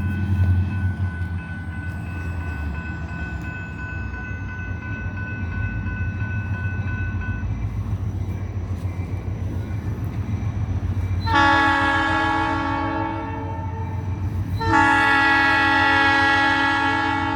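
A train rumbling past, with the locomotive horn sounding two blasts: a shorter one about two-thirds of the way in and a longer one near the end.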